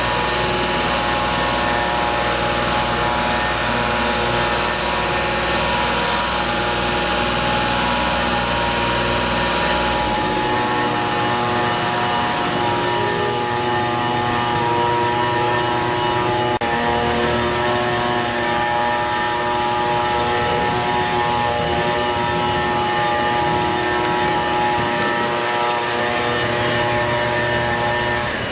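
Engine machinery running steadily, a drone of several held tones; the deep rumble drops away about ten seconds in.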